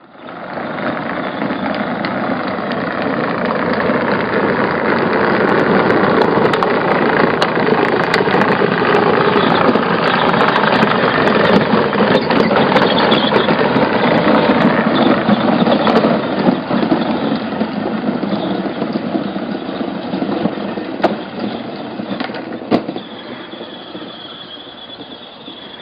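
Small fuel-burning engine of a radio-controlled toy truck running. It grows louder over the first few seconds, holds steady, then fades over the last several seconds, and a thin high whine comes in near the end.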